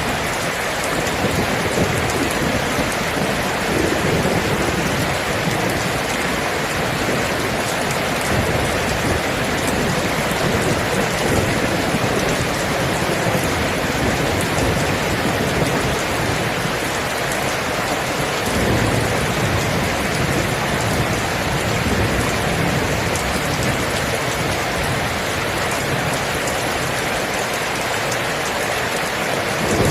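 Steady, heavy rain falling, with thunder rumbling low underneath.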